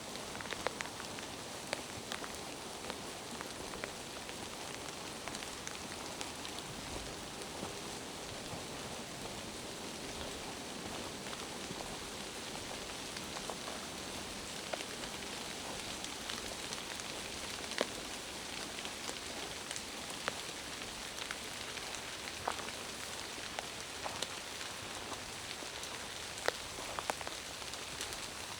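Steady rain falling, an even hiss with many scattered single drops ticking close by.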